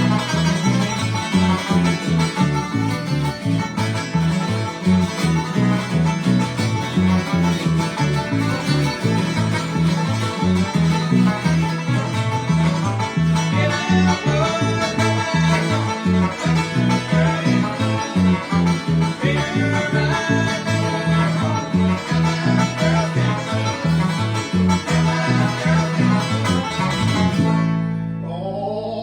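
Fast, hard-driving bluegrass instrumental led by banjo with string-band backing. The tune ends a little before the close on a final chord left ringing.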